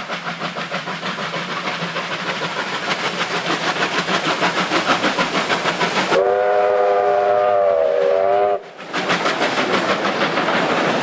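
Steam locomotive running at speed, its rapid, even exhaust beats growing louder. About six seconds in, its multi-note chime whistle sounds a chord for about two and a half seconds and cuts off sharply, and the beats carry on.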